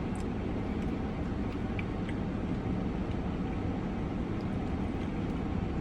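Steady low rumble of a car, heard from inside the cabin, with a few faint ticks.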